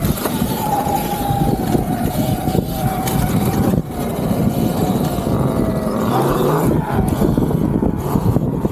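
Electric dirt bike under way: a motor whine that slowly drops in pitch, then climbs again about six seconds in, over a heavy, steady low rumble.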